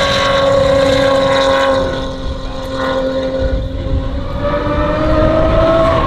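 Lotus Emira GT4 race car's 3.5-litre supercharged V6 running hard at high revs, the note holding fairly steady, easing off a little about two seconds in, then climbing in pitch near the end.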